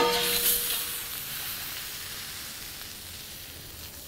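A metal spatula clanks once against the steel flat-top griddle at the start, ringing briefly. Then a birria taco sizzles steadily as its tortilla crisps in the birria oil, the sizzle slowly dying down.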